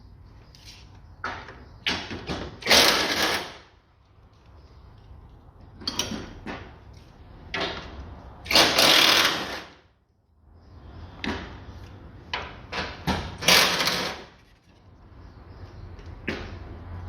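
Cordless impact wrench hammering in three bursts of about a second each, undoing the engine-mount bolts, with short sharp blips of the tool before each burst.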